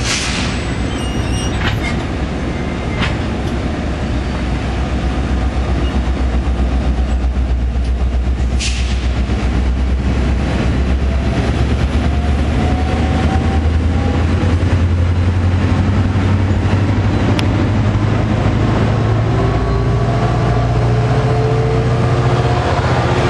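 Commuter train passing, its locomotive's low engine drone growing louder from about five seconds in, with a few sharp clicks in the first seconds.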